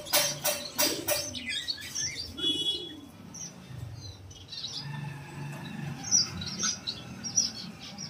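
Small pet aviary birds chirping and calling in short, scattered notes, with one brief buzzy trill. A rapid jingling rattle fades out about a second in.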